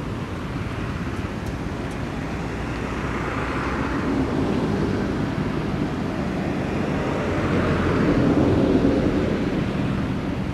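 Outdoor background noise: a steady low rumble and hiss that swells twice, about four seconds in and again around eight seconds.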